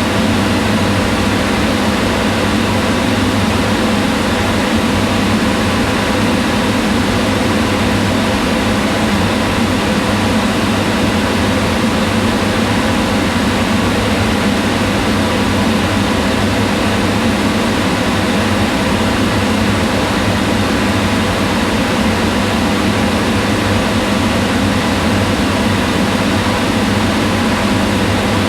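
Kitchen range hood fan running steadily: an even whirring hum.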